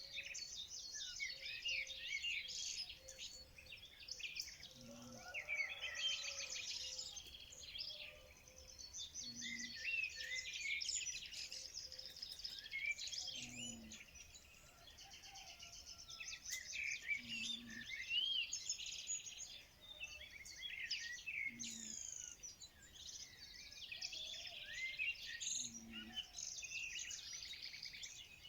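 A chorus of many songbirds chirping and trilling at once, with overlapping high calls. A faint low note repeats about every four seconds underneath.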